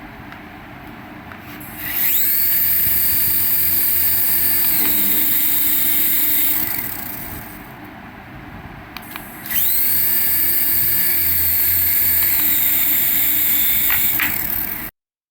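Small electric toy motor whining up to speed twice, running a few seconds each time before dropping in pitch and winding down. The sound cuts off abruptly near the end.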